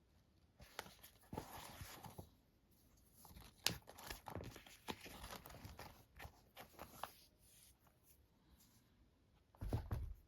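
Close-up handling sounds of unboxing a pair of shoes: irregular rustling and crinkling with a few sharp clicks, and a louder thump near the end.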